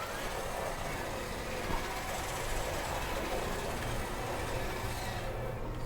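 Remote-control cars driving on pavement: a steady mix of small electric motor whir and tyre noise.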